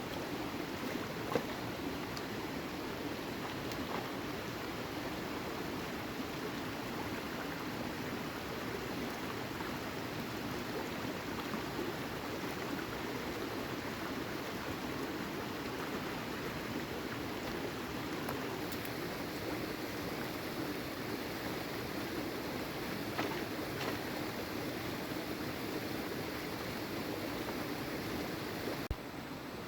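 Steady rushing of water with no break, joined by a few faint knocks.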